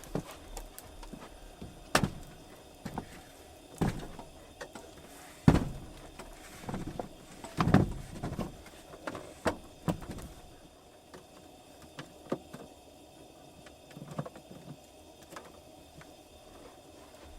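Irregular knocks and thumps of objects being handled and set down, about a dozen in the first ten seconds, then only a few light clicks.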